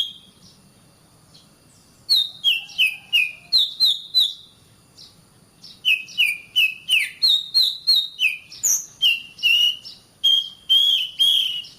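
Oriental magpie-robin (kacer) singing: short whistled notes, each opening with a sharp click and sliding down in pitch, about three a second, in phrases broken by pauses near the start and around the middle.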